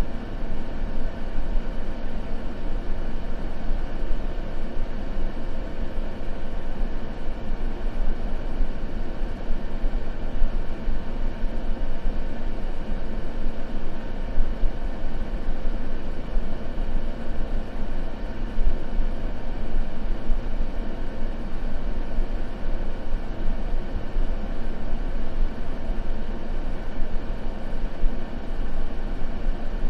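Continuous white-noise ambience: an even, steady rush weighted toward a low rumble, with little treble and no crackle or other events.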